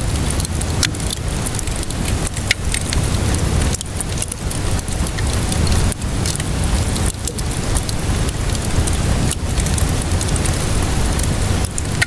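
Wood fire crackling, with many sharp pops scattered throughout, over a steady hiss of rainfall and a low rumble.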